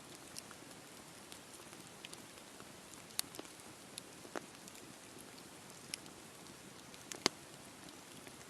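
Wood campfire burning: a soft steady hiss with irregular crackles and sharp pops, the loudest pop about three-quarters of the way through.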